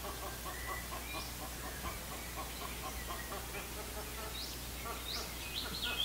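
Wetland birds calling: a rapid run of short chattering notes, about five a second, then several quick rising whistled notes towards the end.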